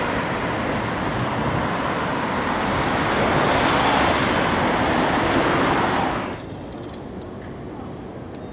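Loud street traffic noise from a vehicle passing close by, swelling and then cutting off abruptly about six seconds in, leaving quieter street background.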